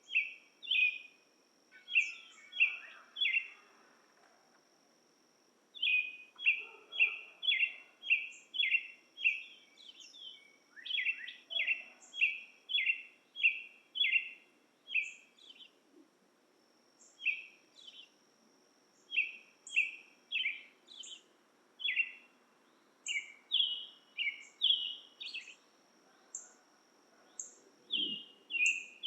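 Forest dusk ambience: runs of short, repeated chirping calls, about two a second with brief pauses between runs, over a thin steady high-pitched whine.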